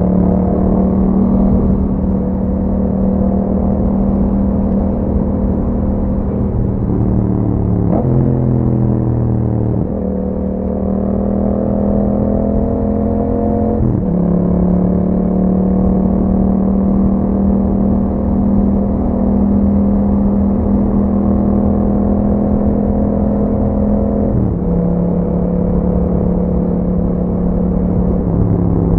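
2021 Yamaha MT-07's parallel-twin engine running through an Akrapovic exhaust while riding. It holds a steady pitch for long stretches. The pitch slides down around a quarter of the way in and steps abruptly at gear changes a few times.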